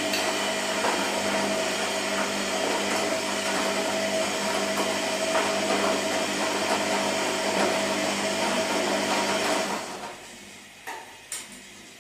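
Washing machine running with a steady motor whine over a broad rushing noise, which stops sharply about ten seconds in; two short clicks follow.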